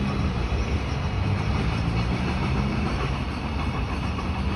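Train running, a steady, unbroken rumble.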